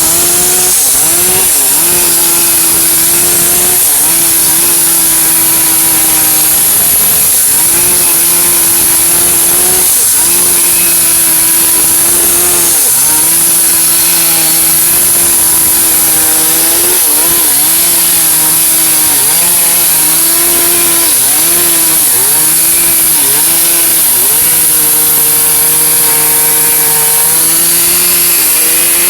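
Chainsaw's small two-stroke engine cutting albizia wood at high revs. Its pitch dips repeatedly as the chain bites into the cut, then picks back up.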